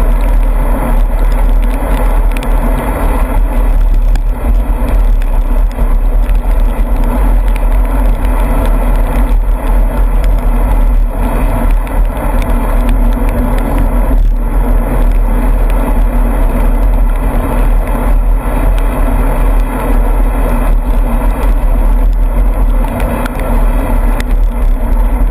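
Loud, steady wind rush buffeting the camera microphone, mixed with road noise, while riding in the rain.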